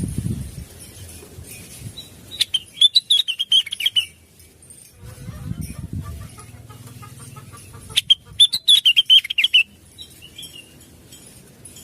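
Blue-winged leafbird (cucak wilis) singing two quick phrases of rapid, warbling high notes a few seconds apart. Low rustling noise comes and goes between the phrases.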